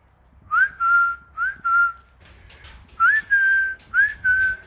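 A whistled call, given twice. Each phrase is two short notes, each sliding up into a held tone, and the second phrase is pitched a little higher than the first.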